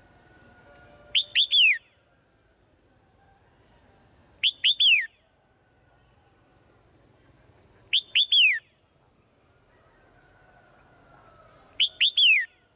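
Swallow calling: a phrase of three quick downward-slurred whistled notes, the last one the longest, repeated four times at even intervals of about three and a half seconds.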